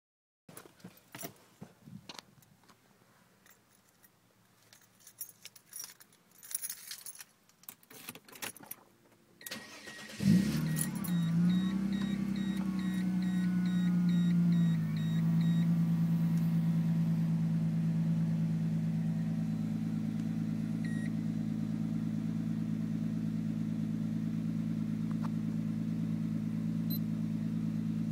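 Keys jangling and clicking in the ignition of a Mercedes-Benz W210 E320, then a high beeping chime, and about ten seconds in the engine cranks and starts with a brief rev flare. It holds a fast idle for a few seconds, then settles to a steady, lower idle through a resonator-deleted Magnaflow performance exhaust, heard from inside the cabin.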